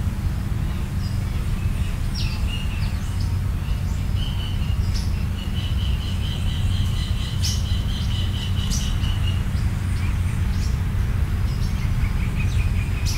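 Birds chirping and calling, with a rapid run of repeated high chirps for several seconds in the middle, over a steady low rumble.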